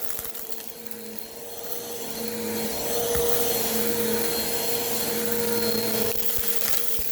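Bissell vacuum cleaner running up close with its brushroll spinning: a steady motor hum over a rushing hiss. It grows louder about a third of the way in and eases off near the end.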